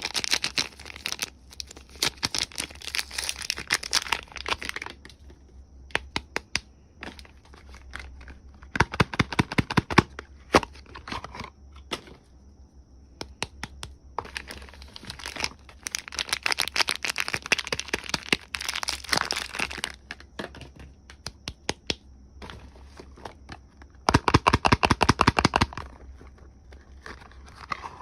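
Soap packaging being unwrapped by hand: the wrapper crinkles and tears in several bursts of a few seconds each, with scattered small clicks and taps between them.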